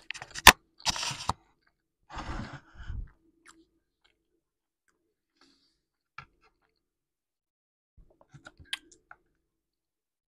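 Close-miked chewing and crunching of a mouthful of food, with one sharp, loud click about half a second in, and a second round of chewing about two seconds in. After that it goes mostly quiet apart from a few light clicks of a fork against the salad bowl, about six and eight to nine seconds in.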